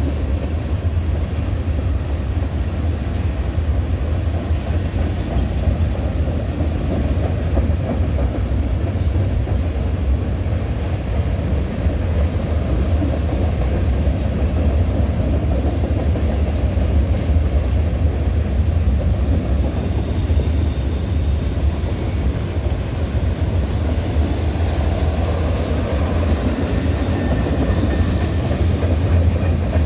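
Freight cars of a long Norfolk Southern manifest train rolling past: a steady, heavy rumble of steel wheels on rail.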